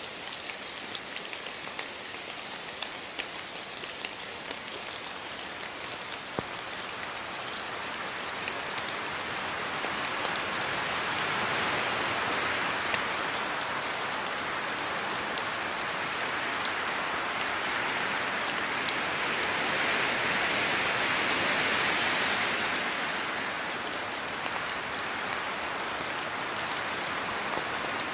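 Steady rain falling, with individual drops pattering on surfaces; the rain swells heavier for a stretch in the middle, then eases back.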